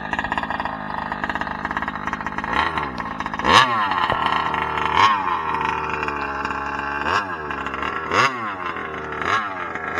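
Small two-stroke gasoline engine of a 1/5-scale Kraken Vekta.5 RC trophy truck running steadily at first. From about two and a half seconds in, it revs up and drops back about six times under bursts of throttle.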